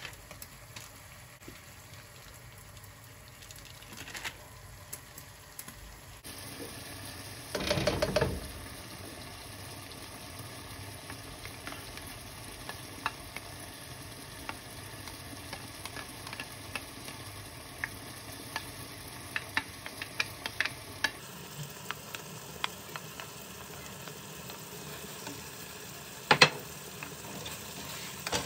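Food frying in a pan, a steady sizzle with scattered small clicks of a utensil. A louder stirring or scraping rush about eight seconds in and a single sharp knock near the end; the background changes abruptly twice.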